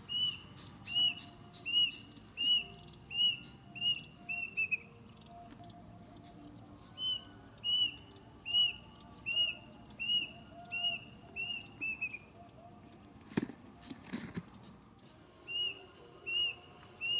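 A bird calling: runs of about eight clear, evenly spaced whistled notes, each run quickening and trailing off at the end, heard three times. Two sharp knocks come between the second and third runs.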